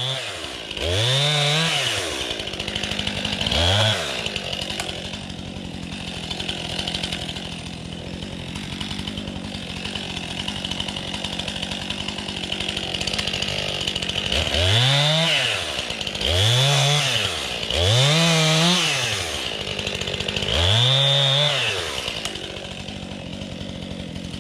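STIHL MS261 two-stroke chainsaw idling after a test start, its throttle blipped seven times: three revs in the first few seconds, a long steady idle, then four more revs near the end. It is a check that the saw starts and runs well before heading out to cut.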